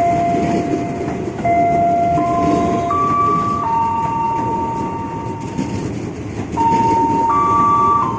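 A train running through with a steady rumble. Over it, a slow electronic tune of held notes steps up and down in pitch: the chime a station plays before a PA announcement.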